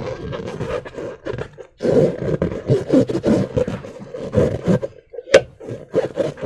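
Slime being squished and stretched by hand: irregular wet squelching and crackling, with a sharp pop a little past five seconds in.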